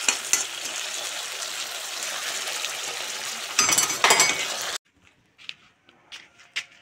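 Mutton and onions sizzling as they fry in a metal pan, stirred with a metal slotted spoon that scrapes and clinks against the pan, loudest a little before four seconds in. The sizzling cuts off abruptly near the end, leaving a few faint short sounds.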